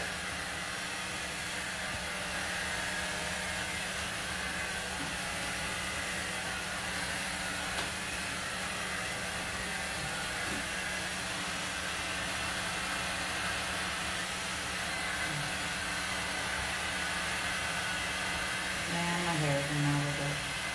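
ANWA 1000W rotating hot-air dryer brush running steadily, its fan blowing with a faint constant motor hum.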